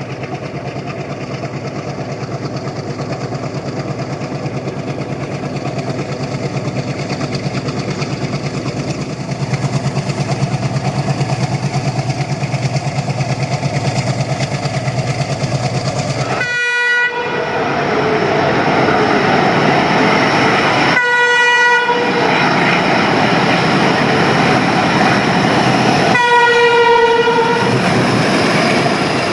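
WDM-3D ALCo diesel locomotive's engine chugging under load as the train approaches, getting steadily louder, with three multi-tone horn blasts: two short ones and a longer last one near the end.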